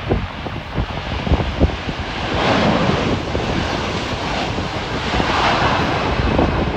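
Jet engines of an Airbus A330 at takeoff power, a continuous roar that swells twice. Gusty wind buffets the microphone underneath.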